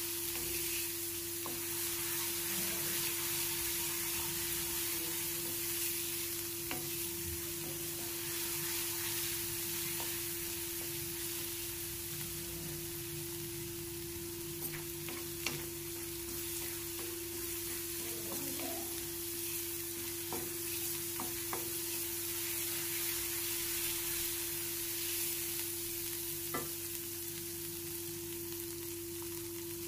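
Onion-garlic paste sizzling steadily in hot oil in a metal kadhai as it is stirred with a wooden spatula, with scattered short clicks of the spatula against the pan. A steady low hum runs underneath.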